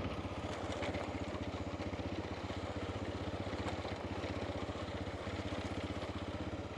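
Honda Dominator's single-cylinder engine running steadily at low revs, with an even, unchanging pulse.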